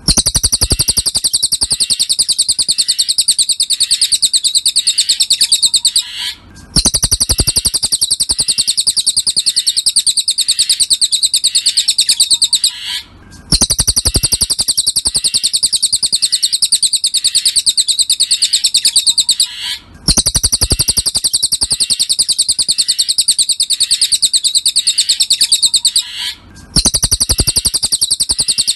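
Cililin bird song: a loud, continuous, very rapid high-pitched trill of chirping notes. It breaks off for a moment about every six and a half seconds, as a looped recording does.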